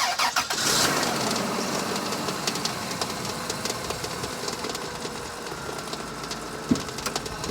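2000 Dodge Caravan engine, with a newly fitted serpentine belt, catching and flaring up as it starts, then settling into a steady idle with a faint whine and light ticking. Something is still making noise, which the owner wonders may be the water pump or the belt tensioner.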